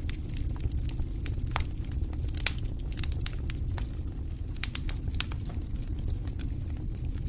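Campfire crackling, with irregular sharp pops and snaps, the loudest about two and a half seconds in and again past five seconds, over a steady low rumble.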